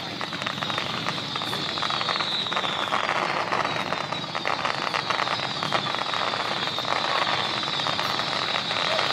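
Fireworks display: a steady dense crackling, with a high whistle-like tone falling in pitch again and again every couple of seconds.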